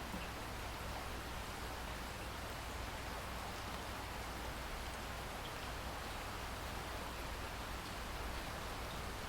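Steady rainfall: an even, unchanging hiss.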